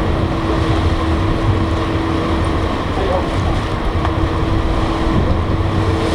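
Ferry engines running with a steady drone and a low hum while wind buffets the microphone; a thin steady tone runs with it and fades about five seconds in.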